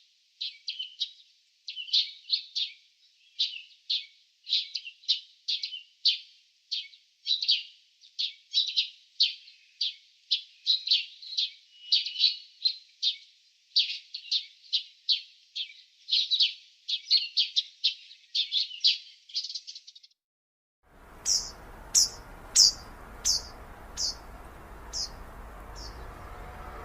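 Small songbirds chirping: a rapid, continuous stream of short high chirps for about twenty seconds. After a brief gap the sound changes to a background hum with a run of about eight louder single chirps that space out as they go.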